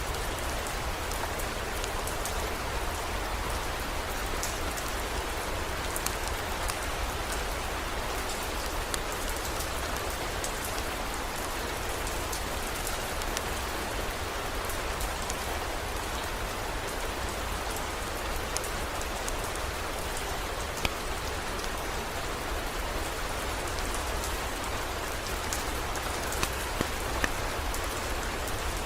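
Steady heavy rain: an even wash of falling water sprinkled with scattered sharp drop ticks, over a low, steady rumble.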